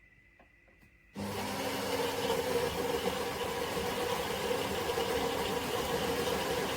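Philips Baristina espresso machine switching on about a second in and running with a steady, loud mechanical whir and buzz.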